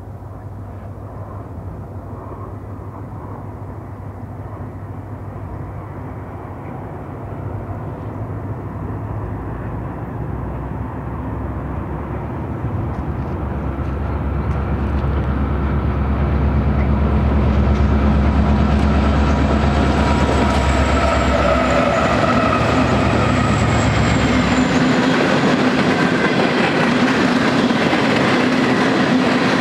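Union Pacific diesel locomotives pulling a freight train approach and pass, their low engine rumble growing steadily louder, then dropping away late on as the locomotives go by. The freight cars follow, rolling and clattering over the rails with thin high wheel squeals.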